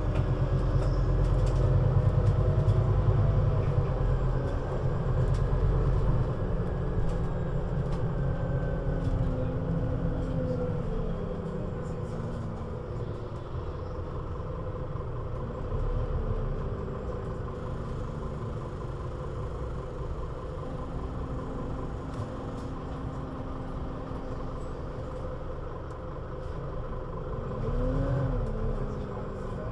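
Scania Citywide bus engine pulling strongly at first, then dropping in pitch as the bus slows, settling into a steady, quieter low run. A brief rising-and-falling whine near the end.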